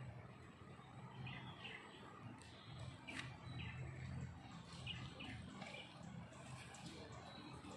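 Faint outdoor ambience with a few short, high bird chirps scattered through it over a low background rumble.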